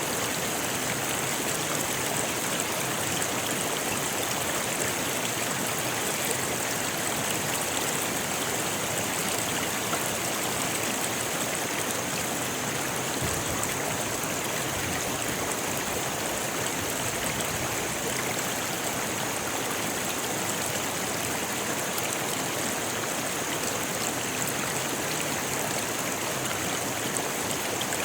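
Shallow river running over rocks, a steady rushing and babbling of water.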